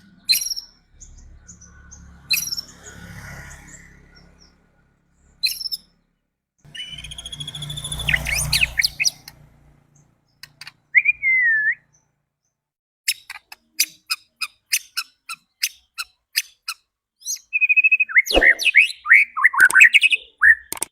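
White-rumped shama (murai batu) singing in separate bursts: varied whistles, a rising-and-falling glide, a fast run of sharp clicking notes, and a dense rush of song near the end. This is a lure song meant to provoke other shamas into singing. Two rough, noisy passages with a low rumble come early and in the middle.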